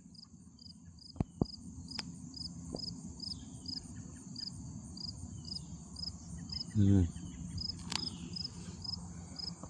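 Insects chirping in an even rhythm, about two to three chirps a second, over a steady high buzz. Low rustling, a few sharp clicks, and a short low-pitched sound about seven seconds in.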